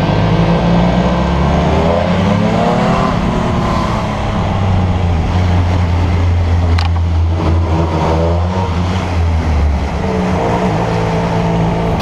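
Benelli TnT 1130's three-cylinder engine accelerating hard, its pitch rising in sweeps through the gears, twice, over a steady rush of wind noise.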